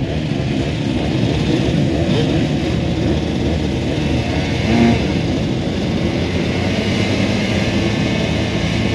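Several motocross bikes' engines running and revving together, their pitches rising and falling over one another.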